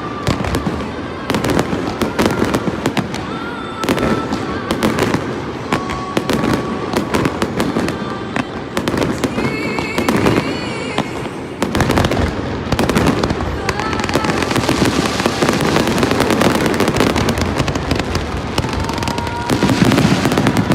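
Fireworks display: a rapid, continuous stream of bangs and crackling bursts, growing denser from about two-thirds of the way through.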